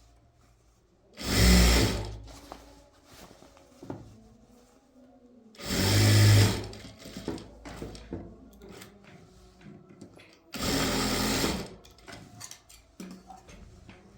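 Electric sewing machine stitching in three short runs of about a second each, with pauses between them.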